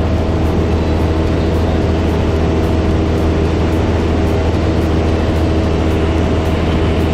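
Cessna's piston engine and propeller droning steadily in cruise, heard inside the cockpit.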